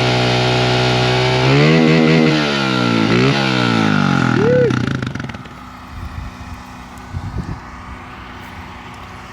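Small pit bike engine idling steadily, then revved in a few quick throttle blips, rising and falling in pitch. It shuts off or drops away about five seconds in, leaving quieter background with a few low knocks.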